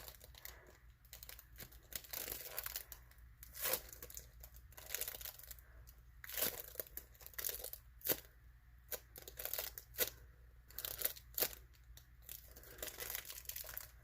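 A homemade foam squishy being squeezed and handled, giving irregular crinkling, crackling rustles with sharp little snaps scattered throughout.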